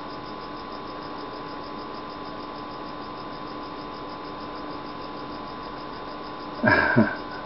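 Steady background hum and hiss with a few constant tones, then a brief loud voiced sound, like a grunt or throat noise, near the end.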